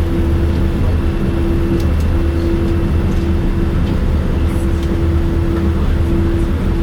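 Cabin noise inside a Boeing 787-9 with its engines running: a steady, loud low rumble of engines and airframe, with a steady hum that drops out briefly every second or so.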